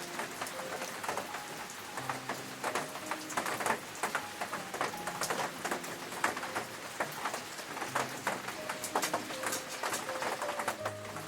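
Rain falling as irregular drips and patters on a surface, with a soft, slow melody of held notes underneath.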